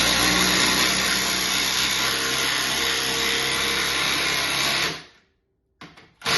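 Milwaukee M12 FUEL cordless tool running under load, driving a long screw into wood, for about five seconds before it stops. It starts again just before the end.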